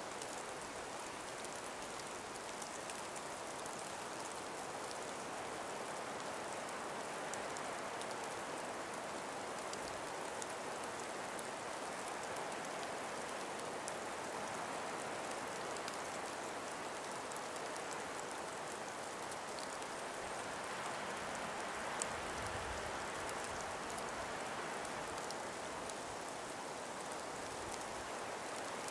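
A calm breeze through ice- and snow-laden forest trees: a steady soft hiss, with many faint small ticks through it and one sharper tick about 22 seconds in.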